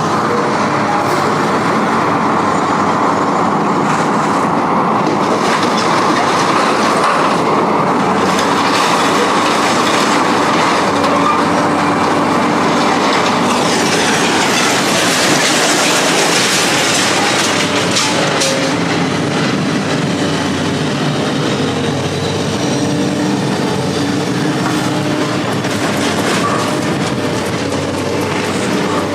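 Train passing at length: a steady, loud rolling noise of rail cars, growing brighter and hissier about halfway through.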